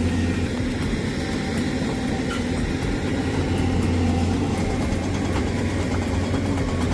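Heavy excavator's diesel engine running steadily with a deep, even hum.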